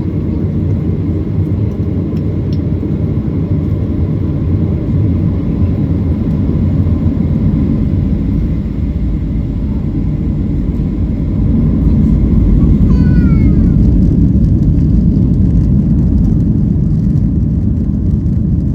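Boeing 737-800 airliner's CFM56-7B engines and runway rumble heard from inside the cabin on the takeoff run, a steady loud low rumble that grows louder about twelve seconds in. A short falling whistle-like tone sounds about a second later.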